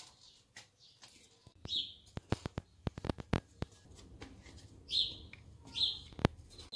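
Bird chirps, a few short calls spread through, with a quick run of sharp clicks about two to three and a half seconds in and one loud click near the end.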